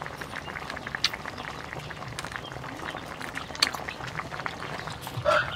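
Close-up eating sounds of a man chewing chicken meat: scattered wet smacks and clicks of lips and mouth. Near the end a rooster starts crowing.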